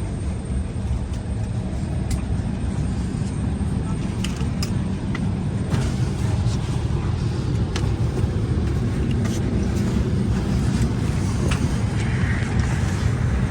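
Steady low rumble inside an Embraer E170 cabin during boarding, with faint passenger chatter and scattered short clicks and knocks.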